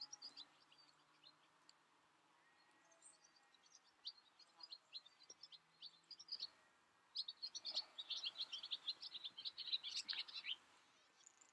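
Small birds chirping: rapid runs of short, high chirps, faint and sparse at first, then thick and steady over the second half.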